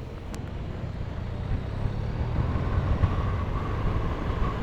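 Motorcycle riding: the BMW R1200RT's flat-twin engine running, with road and wind noise, growing gradually louder.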